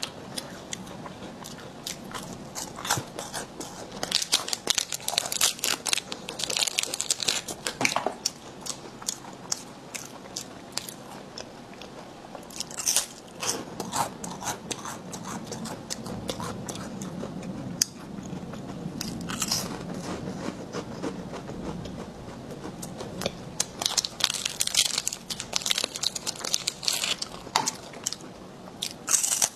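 Close-up bites and chewing of a crisp snack: crackly crunching throughout, in several louder runs.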